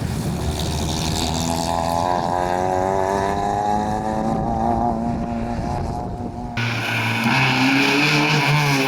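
Historic rally car engine at high revs, its note rising steadily as it accelerates. About two-thirds of the way through the sound changes abruptly to another rally car's engine, rising and falling with gear changes.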